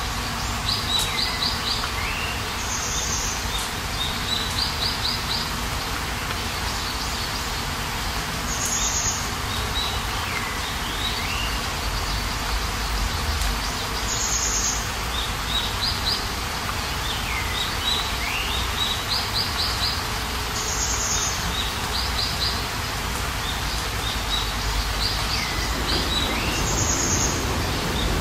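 Steady hiss of a hailstorm's downpour. Over it a songbird repeats the same short phrase about every six seconds: a high buzzy note, a swooping whistle and a quick run of four or five notes.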